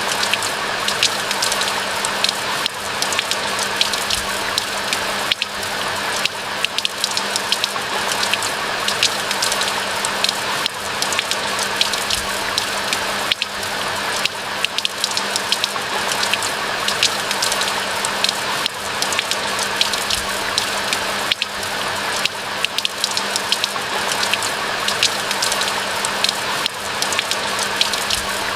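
Steady rain falling, a dense even wash with many sharp individual drop ticks throughout.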